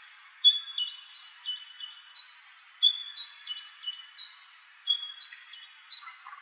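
Songbirds chirping: a rapid, overlapping run of short high notes, each dropping quickly and then holding, about three a second, cutting off suddenly at the end.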